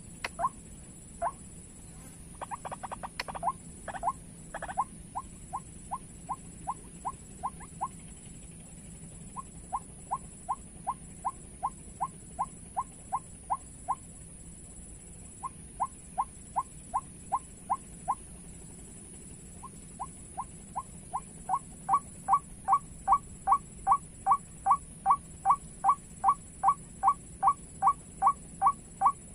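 White-breasted waterhen calls: long series of short, evenly repeated notes, about two a second, broken by pauses and growing louder in the last third.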